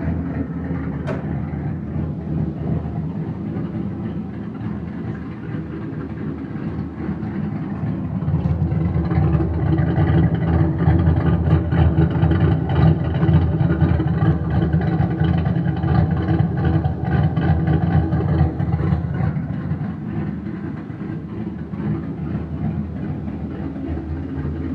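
Boosted Fox-body Ford Mustang engine idling steadily, louder for about ten seconds in the middle. The car has a slight exhaust leak.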